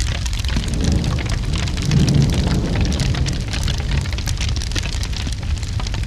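Steady rain mixed with dense fire crackling, over a low rumble that swells about a second in and eases off by three seconds.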